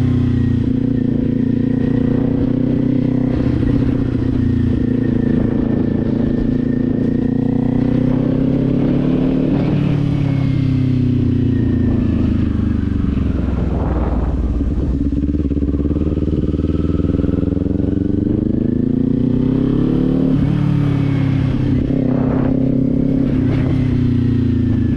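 Kawasaki Z400 parallel-twin motorcycle engine running under way. Its pitch holds steady, then falls and climbs again several times as the throttle is rolled off and back on.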